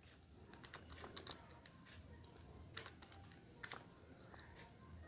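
Faint key-press clicks over near-silent room tone: a quick run of small taps about a second in, then single clicks near the three- and four-second marks.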